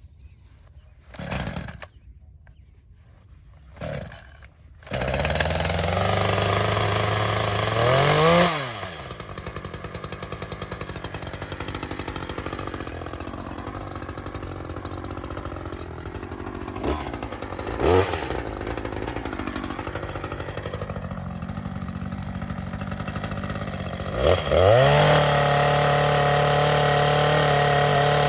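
Two-stroke chainsaw pull-started: two short pulls on the starter cord, and the engine catches about five seconds in. It runs high at first, drops back to a low, uneven idle with a couple of brief blips of throttle, then near the end revs up and holds steady at high speed.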